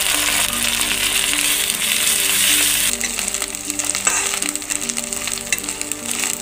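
Onions and ginger-garlic paste frying in hot oil in a steel kadhai: a steady sizzle, loudest for the first three seconds and then easing, with a steel ladle stirring and scraping the pan. Soft background music plays underneath.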